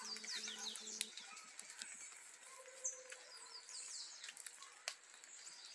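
Small birds chirping faintly in quick runs of short falling chirps, near the start and again around three seconds in. A steady low hum stops about a second in, and faint clicks are scattered through.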